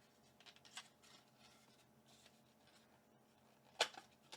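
Hands handling trading-card packaging, with faint rustling and small ticks and one sharp click near the end.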